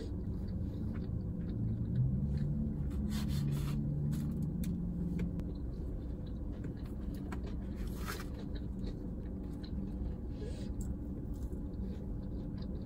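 Chewing and mouth sounds of someone eating a cheeseburger: scattered small wet clicks, with two short rustling noises, over a steady low rumble.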